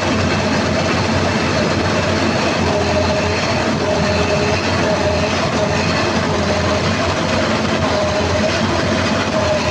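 CAT 320D2 L excavator's diesel engine running steadily at high throttle, with a steady whine over the engine noise. The engine is held to about 1800–1900 rpm, a low-RPM fault being traced to the throttle cable or an engine stopper.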